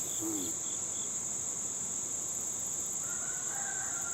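Steady high-pitched insect trilling, with a faster run of short chirps that stops about a second in.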